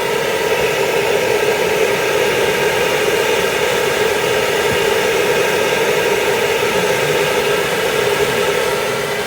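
Hair dryer blowing steadily, its motor giving a constant whine over the rush of air.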